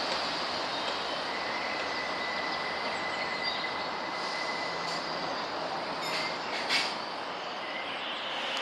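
Diesel multiple unit train running on the line: a steady rumble, with a thin high wheel squeal held for a few seconds. A few sharp knocks come near the end, the loudest about two-thirds of the way in.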